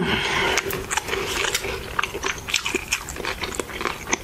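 Close-miked chewing of a mouthful of burrito: wet smacking and many small clicks of the lips and tongue, going on throughout.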